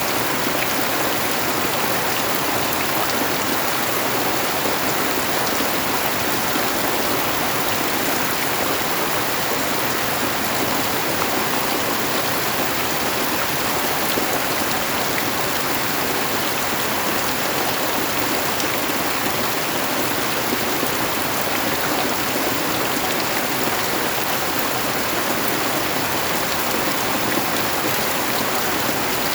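Steady rain falling: an even, unbroken hiss of water with no change in strength.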